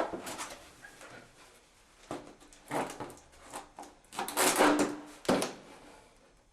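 Several short knocks and scrapes of hard objects being handled, with a longer scraping sound about four and a half seconds in.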